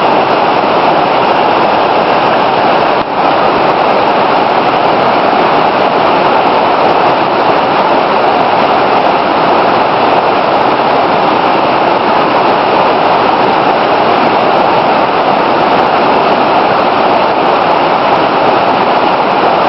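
Waterfall rushing: a loud, steady noise of falling water, with a brief dip in loudness about three seconds in.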